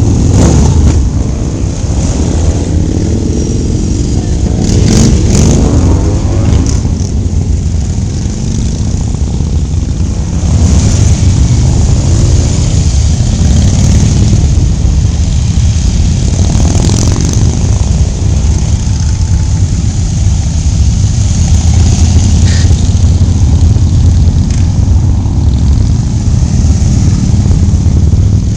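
Motorcycle engines running loudly during a group ride, with engines swelling and changing pitch a few times: near the start, about five seconds in and about seventeen seconds in.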